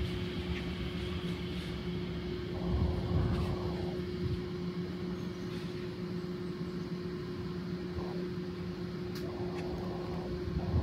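A train's steady mechanical hum with a constant mid-pitched tone, with two brief washes of rushing noise, about two and a half seconds in and again near the end.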